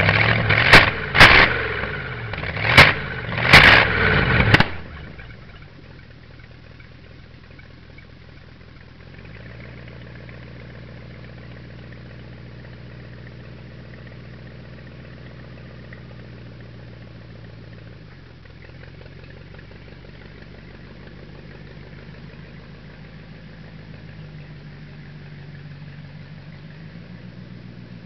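Ford flathead V8 engine revved in several quick, loud blips over the first five seconds. The sound then drops suddenly, and a much fainter, steady engine sound carries on.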